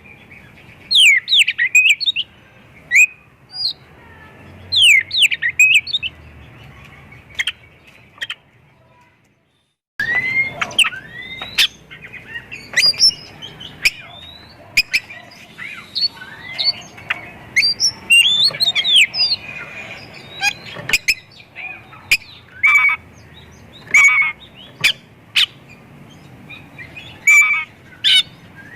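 Oriental magpie-robin (kacer) singing a loud, varied song of rising and falling whistles and harsh chattering notes, packed with mimicked calls of other birds. The song breaks off to silence for about a second and a half near nine seconds in, then resumes.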